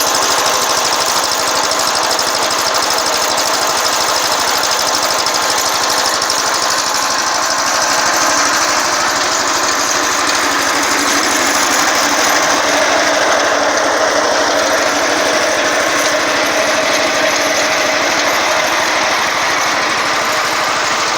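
6.5 hp Honda-clone single-cylinder engine on a Wheel Horse A-100 garden tractor, running steadily and loudly.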